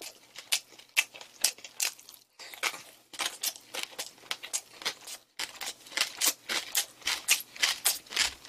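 Close-miked chewing: a steady run of wet smacks and crunchy clicks, about three to four a second, with two brief pauses.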